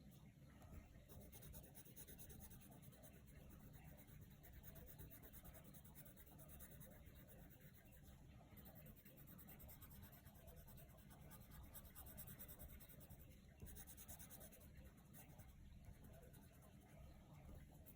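Coloured pencil shading on paper: faint, quick back-and-forth scratching strokes, kept up steadily.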